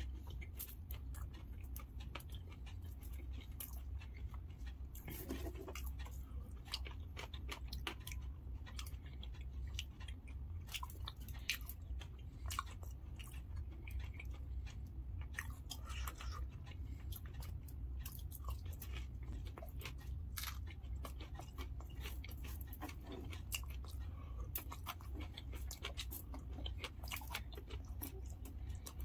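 Close-miked chewing of dahi puri: crisp puri shells filled with yogurt and sev, with many small sharp clicks and crunches throughout. A steady low hum sits underneath.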